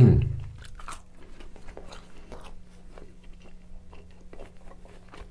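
A person chewing a mouthful of pepperoni pizza close to the microphone: soft, irregular crunches and mouth clicks several times a second.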